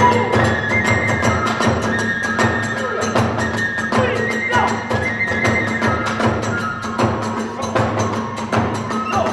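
Kagura hayashi ensemble playing: a fast, steady beat of drum and small hand-cymbal strikes under a bamboo flute holding long high notes that step and slide between pitches.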